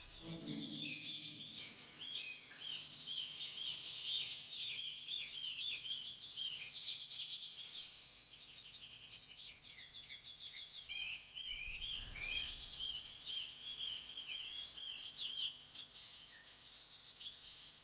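Birds chirping: many quick, overlapping high calls, thinning out for a few seconds in the middle.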